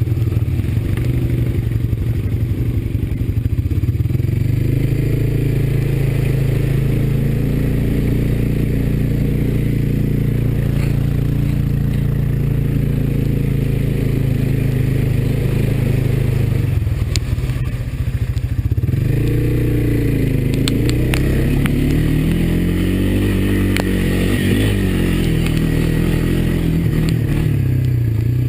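Honda ATV engine running steadily under load, dropping briefly about two-thirds of the way through, then revving up and down several times, with scattered knocks and clatter as the quad works along the muddy trail.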